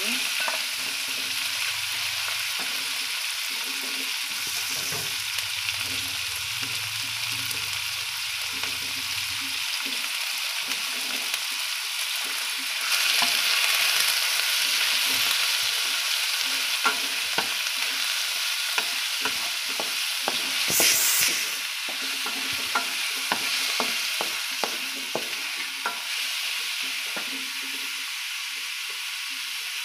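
Chicken pieces sizzling as they sauté in hot oil with garlic, onion and tomato in a non-stick pan, a wooden spatula scraping and clicking against the pan as it stirs. The sizzle swells louder for a couple of seconds about halfway through.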